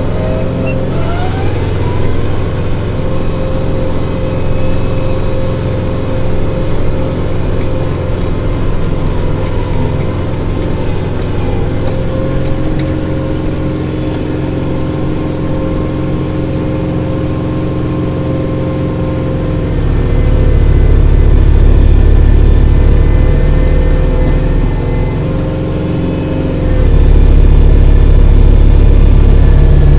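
Kubota diesel tractor engine and snowblower running steadily. A heavier, louder low rumble sets in about two-thirds of the way through, eases briefly, then returns near the end.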